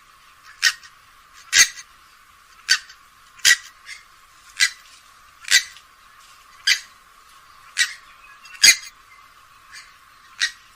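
Grey-headed swamphen calling: about ten short, sharp calls roughly a second apart, some louder than others.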